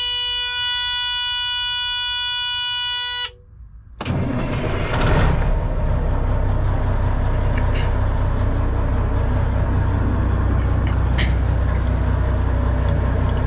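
A semi-truck's diesel engine starting: it catches about four seconds in, rises briefly, then settles into a steady idle. Before that, a steady tone cuts off a little over three seconds in.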